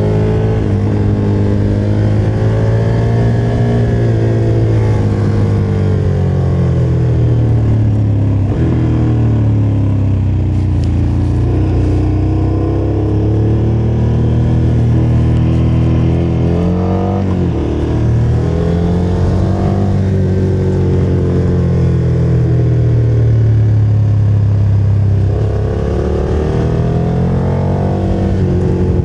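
KTM motorcycle engine running under way, its pitch climbing and dropping several times as the throttle is opened and closed.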